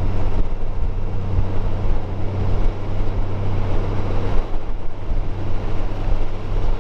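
Motorcycle engine running steadily at cruising speed with road noise, picked up by a helmet-mounted camera.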